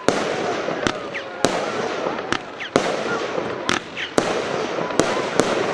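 Multi-shot consumer firework battery (cake) firing, about nine sharp bangs roughly every half second over a steady crackling hiss.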